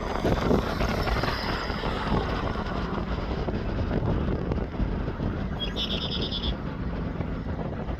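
Diesel-hauled freight train rumbling steadily along the track, with a brief high pulsing trill about six seconds in.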